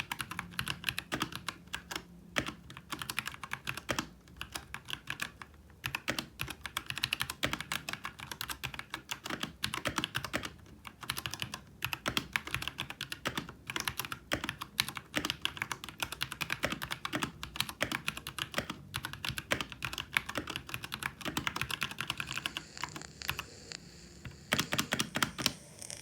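Typing on a Royal Kludge RK G68 65% mechanical keyboard with stock, unlubed RK brown switches and PBT Cherry-profile keycaps: a steady run of keystrokes, with a fast flurry near the end.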